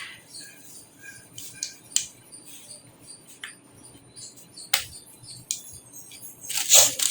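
Light metallic clicks and clinks from handling computer case parts and small screws, with a louder rattling clatter near the end.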